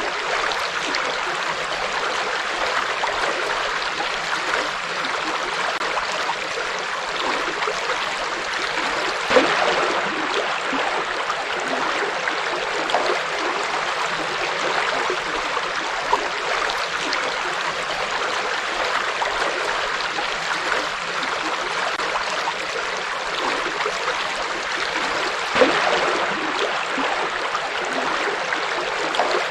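River water flowing in a steady, continuous rush, with two brief louder splashes, one about nine seconds in and one near the end.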